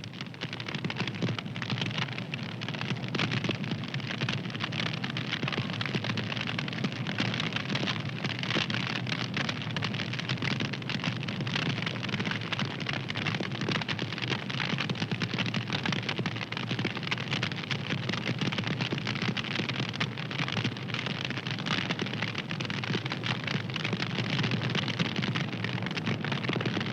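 Wood fire crackling steadily, with many small sharp pops over a constant hiss.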